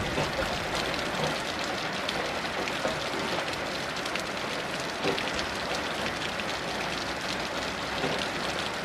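Heavy rain falling steadily: a dense, even hiss with many individual drop hits.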